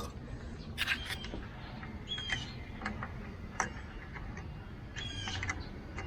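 Scattered metal clinks and knocks of hand tools against diesel engine parts, a few sharp taps about a second apart, two of them with a brief high ring.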